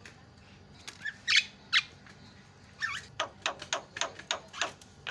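Javan myna (jalak kebo) calling: two sharp squawks about a second in, then a quick run of harsh notes from about three seconds.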